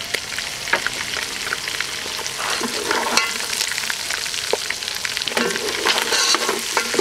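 Lamb trotters frying in oil in a metal pot with their ground spices, sizzling steadily, while a wooden spatula stirs them with repeated scrapes and clicks against the pot and the bones. This is the bhuna stage, where the spice masala is fried onto the meat.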